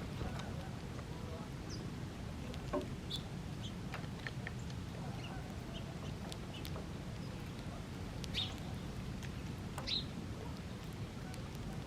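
Birds calling: scattered short chirps and calls over a steady low background rumble, the clearest two about eight and a half and ten seconds in.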